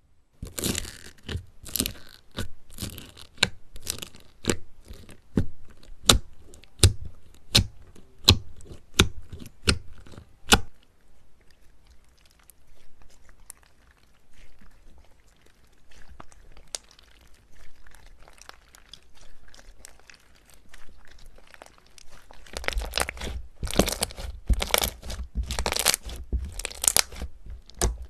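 Crunchy slime squeezed and pressed by hand, crackling with sharp pops. There is a run of crisp pops for the first ten seconds or so, softer, quieter squishing in the middle, then dense crackling near the end.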